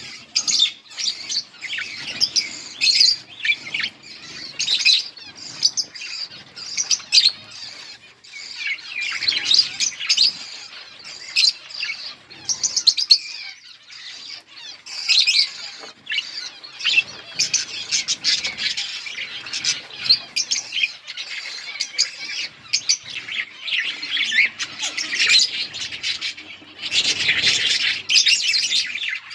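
Budgerigars chattering and chirping continuously, a dense run of short, quick calls with louder stretches now and then.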